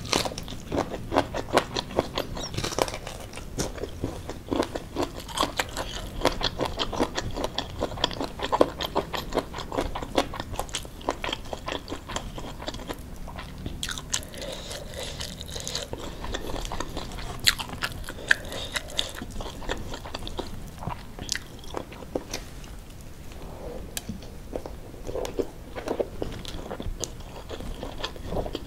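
Close-up eating sounds of rice with sambal teri and shredded chicken: continuous chewing with many sharp, crisp crunching bites, easing off for a few seconds past the middle before picking up again.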